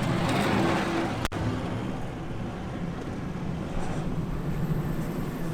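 A car driving, with a steady low road rumble. A louder rushing swell comes in the first second, and there is one sharp click just over a second in.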